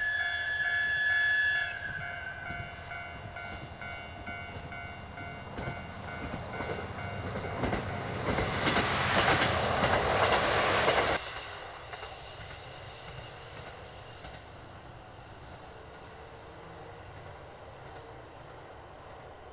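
A train sounds its horn for about two seconds, then passes close by with a loud rumble and rushing noise. The noise cuts off abruptly about eleven seconds in, leaving a faint steady background.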